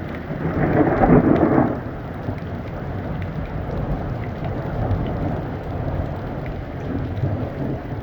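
Thunder rumbling over steady rain, with a louder peal about a second in that fades back into a continuing low rumble.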